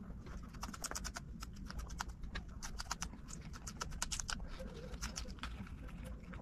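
Close-miked crunching and chewing of raw green chili peppers: an irregular run of crisp, snapping crunches.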